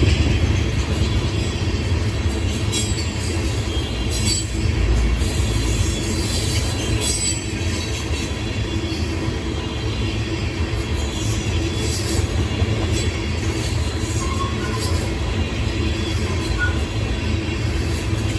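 Train cars rolling past on the rails: a steady low rumble, with irregular sharp clicks from the wheels every few seconds.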